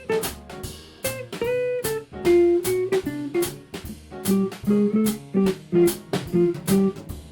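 Jazz combo playing live: a guitar carries a line of quick single notes over walking bass and drum kit, with regular cymbal strokes.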